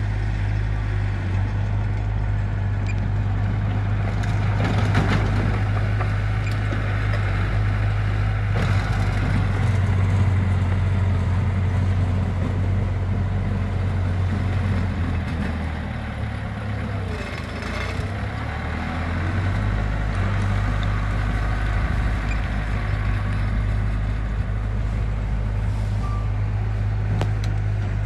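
Diesel engine of heavy construction machinery running steadily with a deep hum, with brief louder, noisier stretches about five seconds in and again past the middle.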